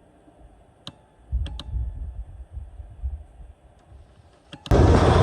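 A van engine being started off a portable jump starter on a weak battery: a few clicks, then a low throbbing churn of cranking for about two seconds. Near the end the engine catches and runs, suddenly much louder.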